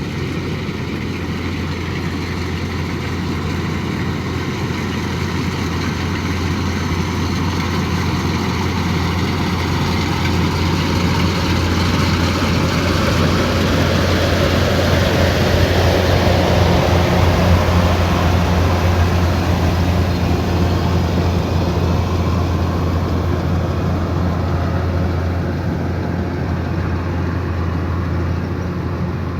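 Kubota DC108X combine harvester running as it harvests rice: a steady diesel engine hum under a broad rush of machinery noise, growing louder to a peak just past the middle and easing off again.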